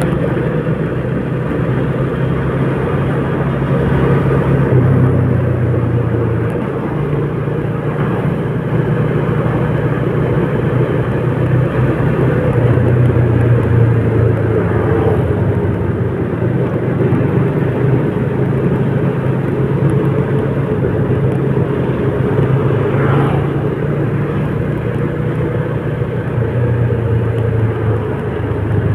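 Road vehicle on the move: steady engine hum and road noise, the low hum shifting in level a few times without any sharp event.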